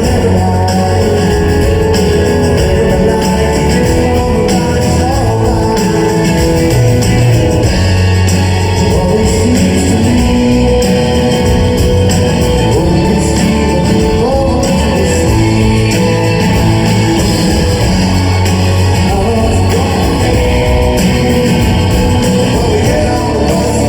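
A rock band playing live, with guitars and a singing voice, loud and continuous, heard in a large hall.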